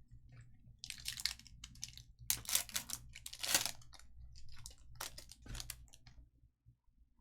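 Foil trading-card pack wrappers and cards being handled: a series of short crinkling, rustling bursts, as when a pack is torn open and the cards are slid out.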